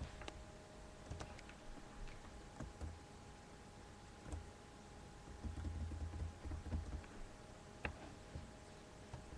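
Faint scattered clicks and low bumps over a faint steady hum.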